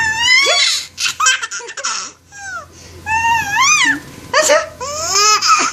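Baby laughing in a series of high-pitched, squealing bursts, about six in all, with short breaths between them.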